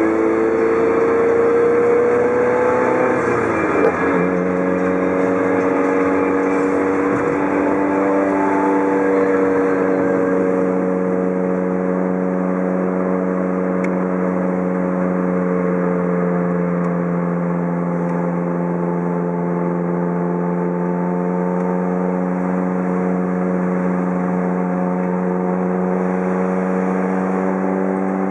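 Mazda Roadster's four-cylinder engine heard from inside the car while driving, with road noise underneath. The engine note climbs for the first few seconds, drops sharply at a gear change about four seconds in, then runs steadily at cruising speed.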